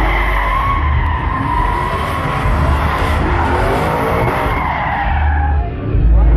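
Pickup truck tires squealing in a long wavering screech as the truck spins donuts, with the engine running hard underneath; the squeal dies away about a second before the end.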